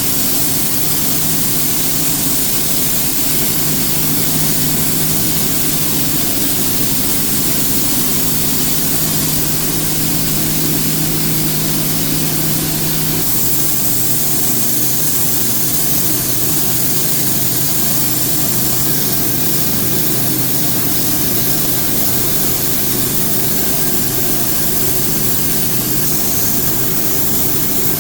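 A machine running steadily with a loud hiss and a low hum, the hum shifting to a slightly different pitch about halfway through.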